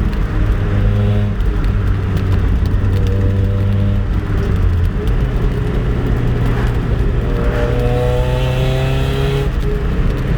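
Mazda Miata's 1.8-litre four-cylinder running through a cheap aftermarket header, Borla dual exhaust and MagnaFlow resonator, heard from inside the car with the windows open while driving. The engine note holds steady, then climbs in pitch under acceleration near the end and drops suddenly, as at a gear change.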